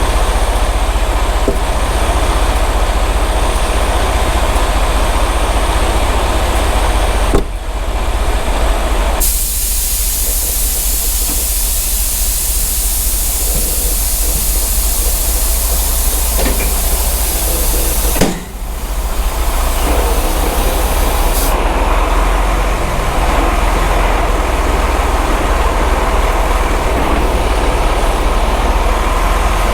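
Semi truck's diesel engine running with a steady low rumble. A loud steady hiss sits over it for about ten seconds in the middle.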